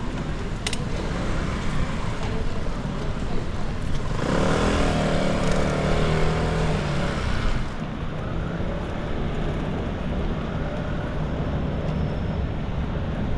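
Street traffic: a motor vehicle's engine passes close, swelling about four seconds in and easing off near the eight-second mark, over a steady hiss of street noise.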